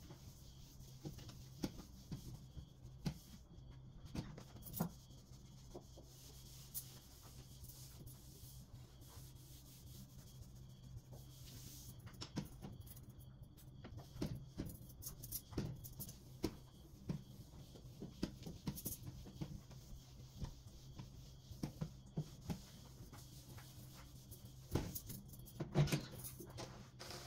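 Scattered light clicks and knocks of household items being handled during cleaning and tidying, over a steady low hum, with a quick cluster of louder knocks near the end.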